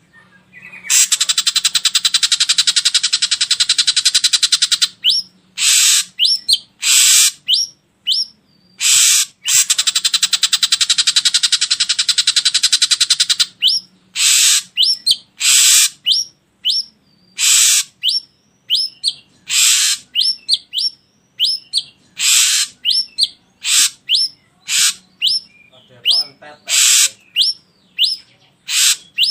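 Ashy drongo calling: two long, harsh rasping buzzes of about four seconds each, then a string of short loud calls and quick whistled notes, roughly one a second.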